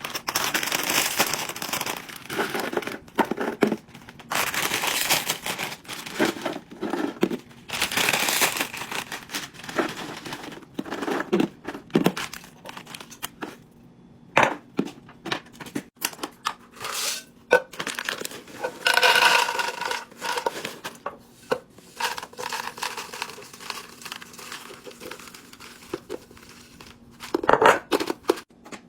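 Plastic packaging crinkling and tearing in irregular bursts, with sharp clicks and knocks of items being handled and set down while a fridge is restocked. A faint steady hum runs through the second half.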